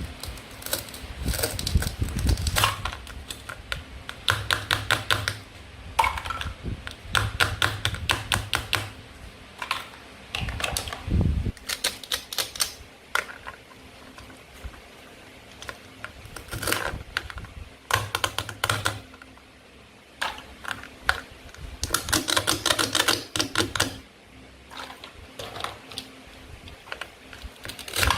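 Toy play food and its cutting tools being handled and cut, giving bursts of rapid clicking and tapping a second or two long, with short pauses between.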